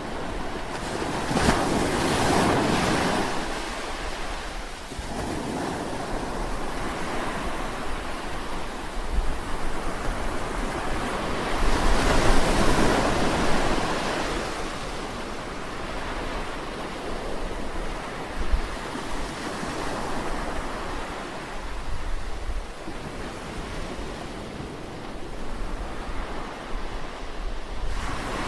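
Sea waves breaking and washing on a shore: a continuous surf that swells and ebbs. The largest waves break about two seconds in and again about twelve seconds in, with smaller ones after.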